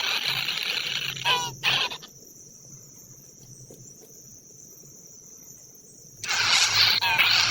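Dense, steady insect chorus, such as crickets or cicadas. It cuts out abruptly about two seconds in and returns just as abruptly about six seconds in. A short chirping call comes just before the break.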